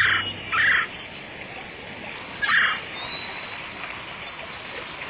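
Three short, harsh bird calls: two close together at the start and a third about two seconds later, over a steady hiss. A low held musical note dies away within the first second.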